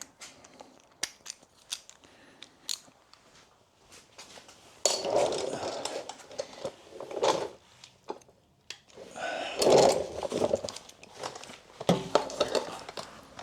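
Hand tools being handled: scattered sharp clicks and metal clinks, then two longer stretches of rustling and clattering.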